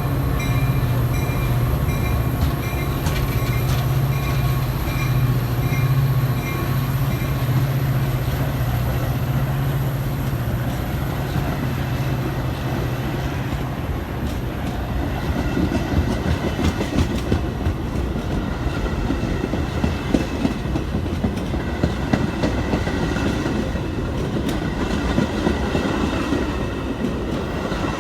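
Diesel-hauled train passing: the locomotive's engine hum dominates the first half, with a bell ringing in evenly repeated strokes for the first several seconds. After that, the cars roll by with steady rhythmic wheel clatter over the rail joints.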